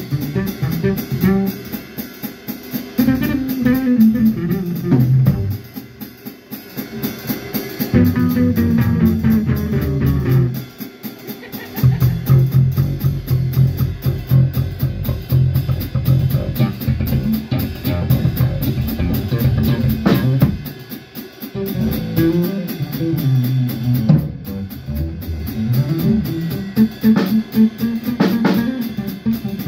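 A band playing music, with guitar and drum kit.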